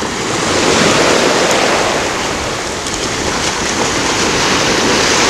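Ocean surf washing in on a beach: a steady, loud rushing that swells a little about a second in.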